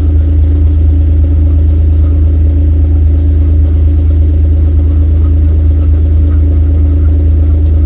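Steady, loud low hum of an idling engine, unchanging throughout.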